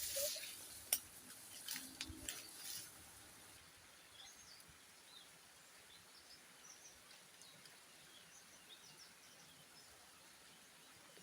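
A few sharp clicks and knocks in the first three seconds, then faint, scattered bird chirps over a quiet outdoor background.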